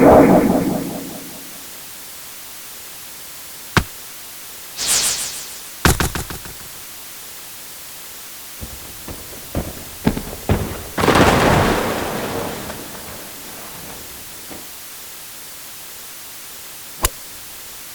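A string of separate baseball sound effects over a steady hiss. Sharp knocks and impacts, one with a short ring, come about 4, 6, 10 and 17 seconds in. There is a short high swish just before the 6-second impact, and a longer noisy swell both at the start and around 11 to 13 seconds.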